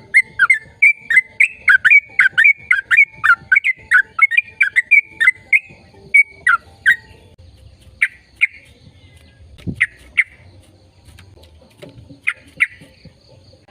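A bird calling: a fast run of short, sharp falling notes, three or four a second, then after about seven seconds only a few scattered pairs of notes.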